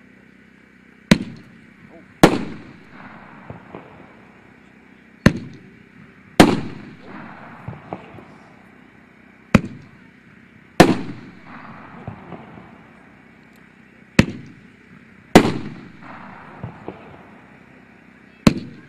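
Cutting Edge Warrior Recon 9-shot fireworks cake firing one shot at a time. Each shot is a sharp launch thump followed about a second later by a louder aerial break with an echoing tail. There are four launch-and-break pairs about four seconds apart, and a fifth launch near the end.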